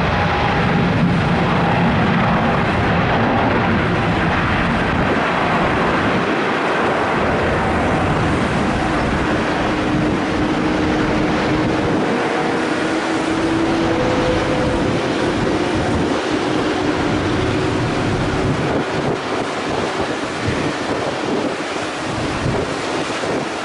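Boeing 777 jet engines at takeoff thrust, a steady loud roar with faint engine tones that drift slowly in pitch, mixed with wind buffeting the microphone.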